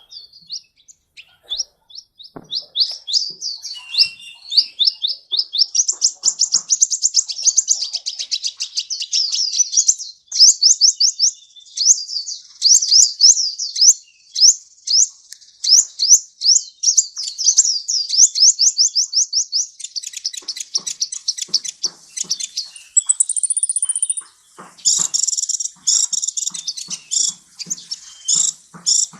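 Kolibri (sunbird) song: a long, fast run of high, sweeping chirps, with a short steady high whistle near the end.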